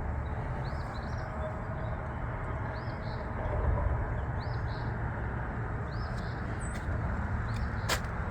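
A bird repeats a short chirping call roughly every second and a bit, over a steady low rumble. A single sharp click comes near the end.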